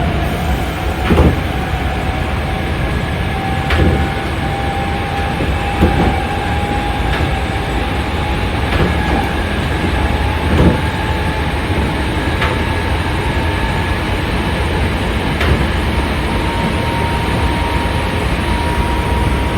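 Hankyu 5300-series resistance-controlled electric train running, heard inside the car: a steady rumble with a motor whine slowly rising in pitch as the train gathers speed. Sharp knocks from the wheels passing rail joints come every couple of seconds.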